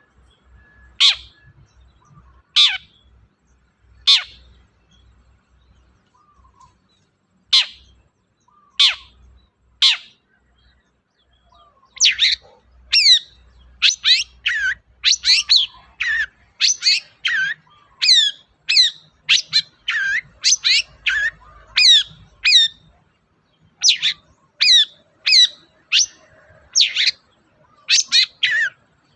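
Long-tailed shrike (cendet) singing. It gives sharp single calls spaced about a second or so apart, then about halfway through breaks into a fast, dense string of short, varied chattering notes.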